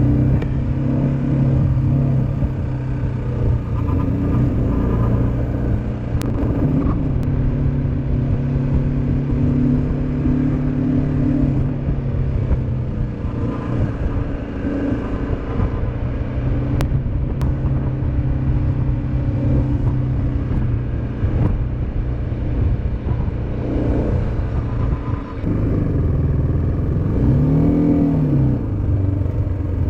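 Motorcycle engine running on the move, its pitch shifting with the throttle, over a low rumble. Near the end the engine note rises and falls once.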